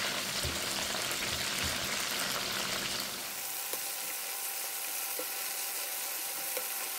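Flour-and-cornstarch-coated chicken wings frying in hot oil in a skillet, a steady crackling sizzle. A few light knocks and clicks come from tongs turning the wings.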